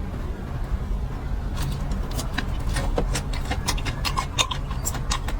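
Crunchy eating sounds: a quick run of sharp crackles and clicks that starts about a second and a half in, over a steady low rumble.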